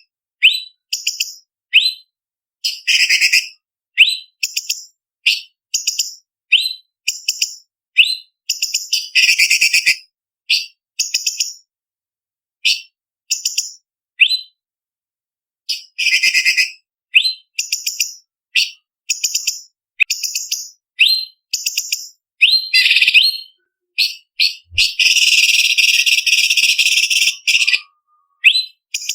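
Orange-bellied leafbird (cucak cungkok) singing: quick runs of short, sharp whistled notes and chattering phrases one after another with brief pauses, and one longer unbroken rattling run near the end.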